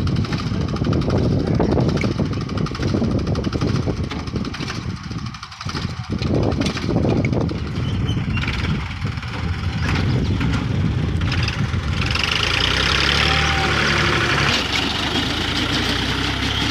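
Mahindra 275 DI tractor's diesel engine running as it works the brick-making mud, its note varying, with a brief drop about five seconds in. About two-thirds of the way through it settles into a steadier hum with a hiss over it.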